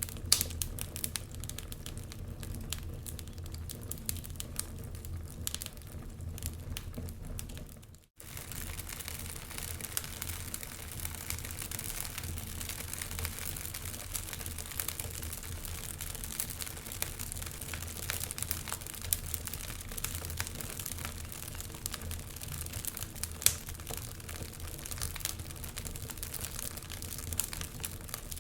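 Wood fire crackling in a fireplace: dense, irregular small pops and snaps over a low steady rumble, with one louder pop near the end. The sound cuts out for a split second about eight seconds in.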